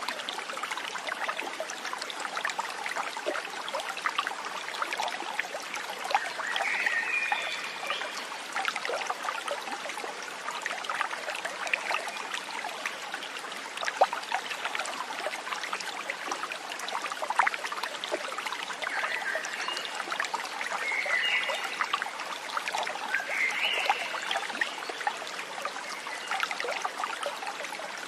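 A stream trickling and splashing steadily, with a few short calls a quarter of the way in and again about two thirds through.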